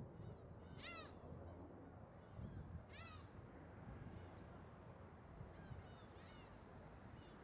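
Gulls calling: two clear, short mewing calls about two seconds apart, then a few fainter ones, over a faint low rumble.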